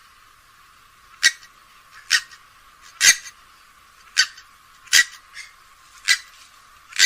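Grey-headed swamphen giving short, sharp single calls, about one a second, thin-sounding.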